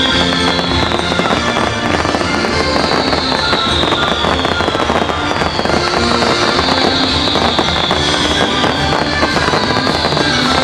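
Fireworks bursting and crackling continuously over a loud orchestral music soundtrack, with a high falling tone recurring every couple of seconds.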